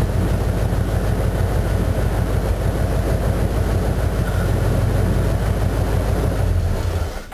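1982 Ford Bronco's 351 Windsor 5.8 L V8 running steadily through Cherry Bomb glasspack mufflers, a loud, deep exhaust note that cuts off near the end.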